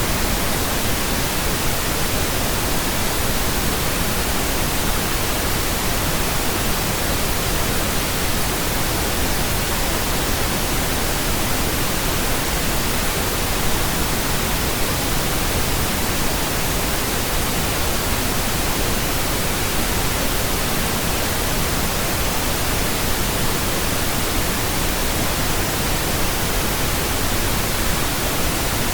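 Steady pink noise: an even, unbroken hiss spread across all pitches.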